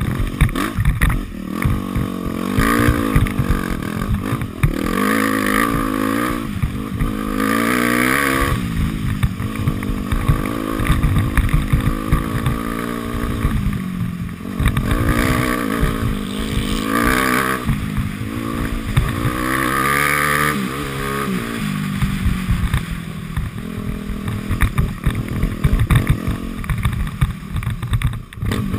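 Dirt bike engine revving hard and easing off over and over, its pitch climbing and dropping as the throttle is worked, with frequent knocks and rattles from rough ground.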